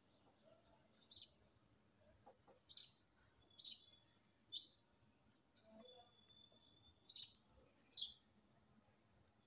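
Faint bird chirps: short high calls about once a second, with a brief steady whistled note around the middle, over near silence.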